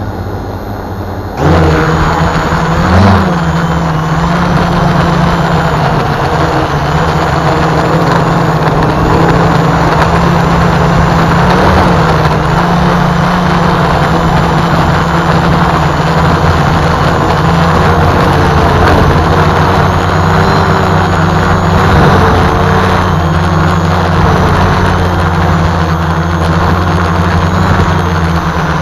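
Home-built multirotor drone's electric motors and propellers humming steadily under a broad rush of noise, flying in strong gusty wind. The hum jumps up in level about a second and a half in.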